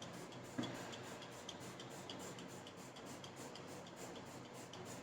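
Faint light ticking, a few small ticks a second, over quiet room tone.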